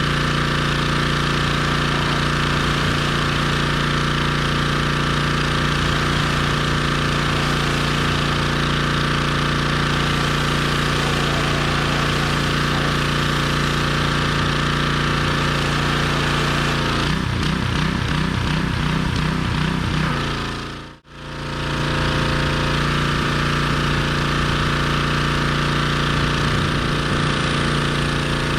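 Gas-engine pressure washer running steadily with an even engine hum. About two-thirds of the way in the sound turns pulsing for a few seconds, then briefly drops out and comes back steady.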